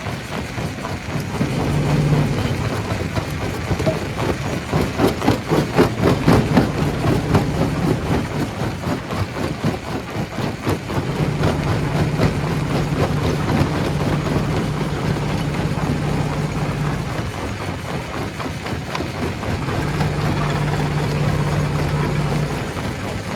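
Stone crusher running under load: a steady low motor hum with dense, rapid knocking and rattling of rock being broken, heaviest about four to seven seconds in.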